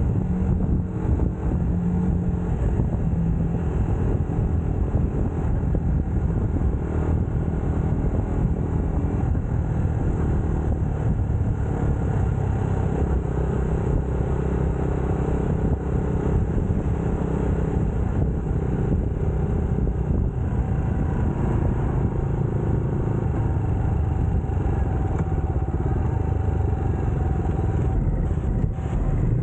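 UM Scrambler X motorcycle engine running steadily while riding, its pitch shifting only slightly.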